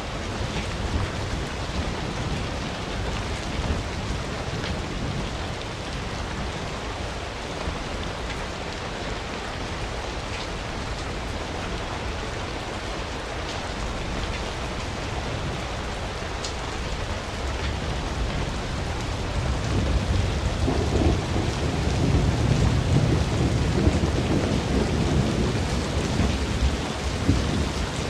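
Campfire burning, a steady crackle and rush with a deep rumble that grows louder from about twenty seconds in.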